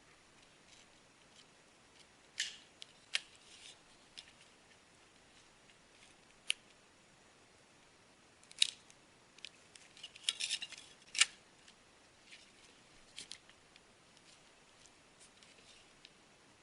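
Small hard plastic clicks and rattles from handling a Parrot Bebop drone's battery and its plug connector: a few sharp clicks spread out, with a busier run of rattling clicks about two thirds of the way through.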